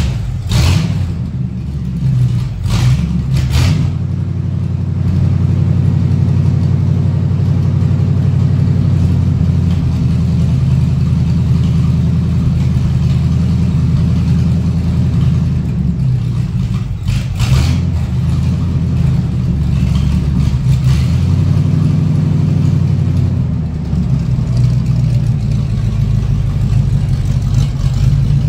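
A 1952 Ford F3 pickup's flathead engine running steadily on the move, a low drone throughout. A few sharp knocks come in the first four seconds and again about 17 seconds in.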